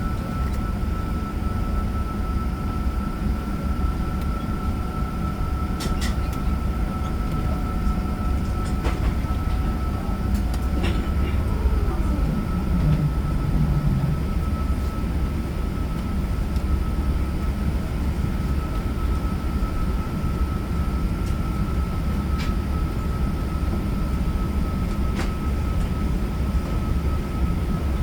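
Steady low rumble of an Airbus A380's cabin with the engines running, under a steady high-pitched whine, with a few light clicks and a short falling tone about halfway through.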